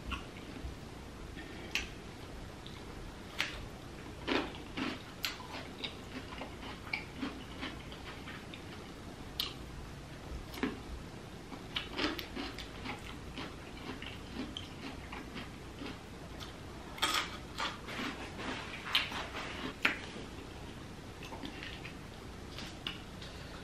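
Eating sounds: irregular wet mouth clicks, lip smacks and chewing of buttery seafood, coming in small clusters.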